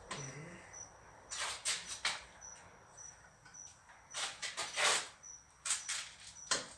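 Hand work with metal tools on a truck cab-tilt bearing housing: three bouts of short, harsh scraping and clinking as a seal and retaining ring are worked into place. Behind it runs a faint high chirp repeating about twice a second.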